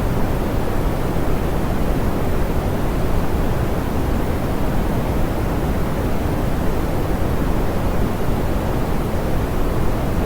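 Steady, smoothed pink noise: an even hiss weighted toward the low end, with the highs rolled off, unchanging throughout.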